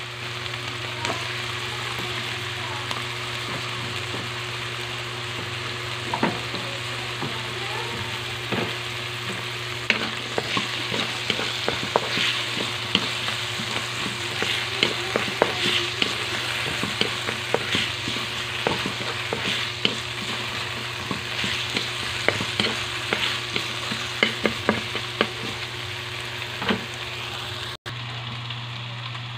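Diced potato, onion and bell pepper sizzling in oil in a metal wok, with a wooden spatula scraping and clacking against the pan as they are stirred; the clacks come thicker in the second half. The sizzle cuts off about a second and a half before the end, leaving a steady low hum.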